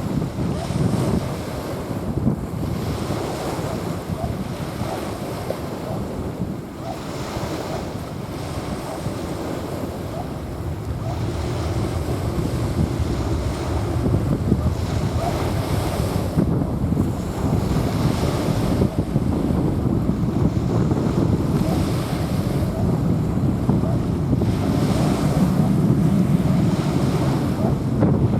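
Small waves washing in and out on a sandy beach, the surf hiss swelling and fading every few seconds, with wind rumbling on the microphone.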